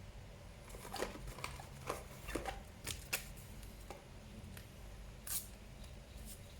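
A string of small sharp clicks and short scrapes, about a dozen over four seconds, from hands working on the laptop's opened CPU cooling assembly, whose old thermal paste is dried out.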